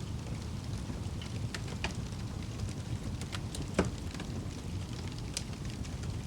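Wood fire burning in a fireplace: a steady low rumble of flames with irregular crackles and pops, one louder pop a little past halfway.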